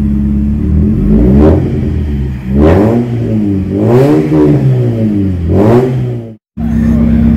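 Alfa Romeo 155 2.0 Twin Spark four-cylinder engine idling, then revved four times with the car standing still, each blip climbing to about 4,000 rpm and dropping back to idle, heard from inside the cabin. Near the end the sound cuts out for a moment and returns at a steady idle.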